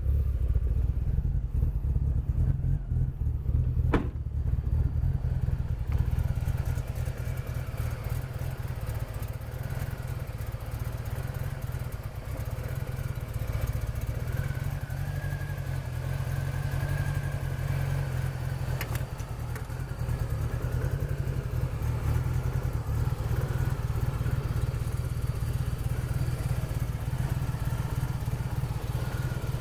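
Toyota Supra's 2JZ-GTE twin-turbo straight-six running with a steady deep rumble. There are a couple of sharp clicks, one about four seconds in and another past the middle.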